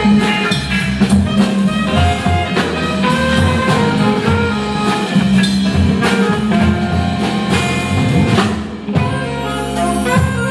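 Live band playing a jazzy number with a steady drum beat, briefly dropping back about nine seconds in.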